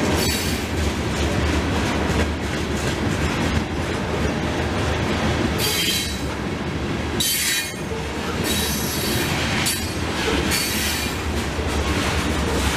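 Freight train of covered hopper cars rolling past close by: a steady rumble and rattle of wheels on rail, with short high-pitched wheel squeals that come and go several times.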